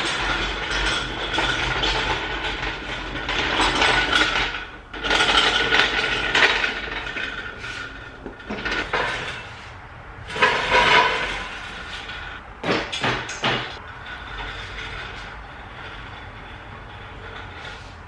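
Steel engine hoist being shoved and dragged across the floor, scraping and rattling in irregular bursts: it rolls badly off concrete. The noise is heaviest over the first several seconds, then comes in a few short shoves and eases off.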